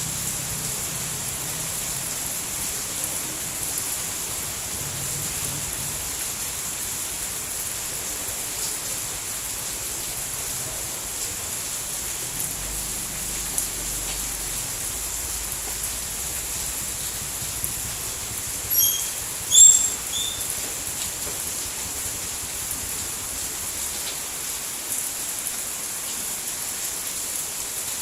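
Steady rain falling, an even hiss. About two-thirds of the way through, a couple of brief high chirps stand out over it.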